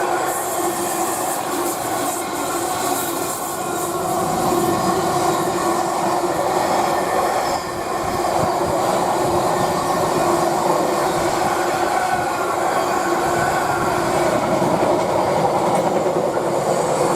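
Freightliner freight train rolling steadily past, its long rake of wagons clattering over the rails.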